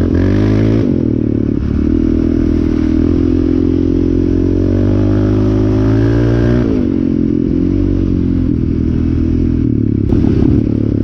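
Yamaha Raptor 700R's single-cylinder four-stroke engine running while riding, its pitch dropping and climbing with the throttle near the start and again about two-thirds through. A brief clatter about ten seconds in.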